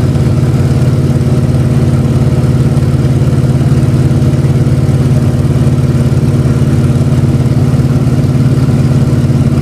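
Antonov An-2's nine-cylinder radial piston engine running loud and steady, with an even low drone that holds one pitch throughout.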